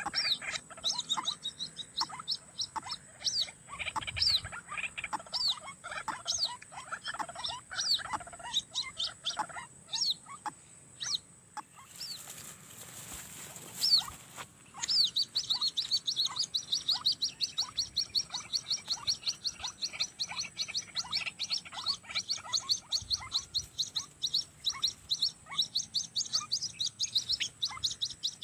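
Birds calling: a long series of short, quickly repeated chirping notes, turning into a fast, even run of high notes about halfway through. A short burst of hiss comes just before that run starts.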